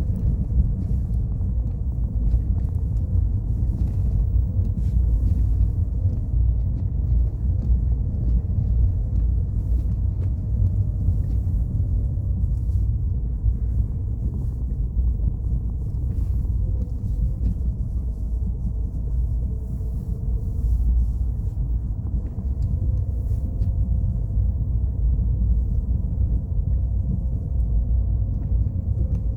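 Car driving steadily along a road: a constant low rumble of engine and tyres, with a faint wavering whine above it.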